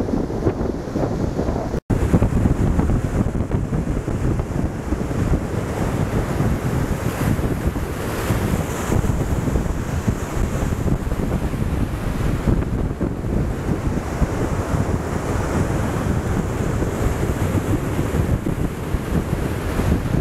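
Strong sea wind buffeting the microphone over large storm waves breaking and washing up the beach, a steady heavy rush. A momentary dropout cuts the sound about two seconds in.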